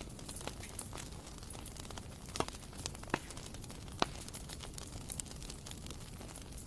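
Bonfire burning: wood crackling with scattered sharp pops over a low, steady rumble of flame. The loudest pops come in the middle.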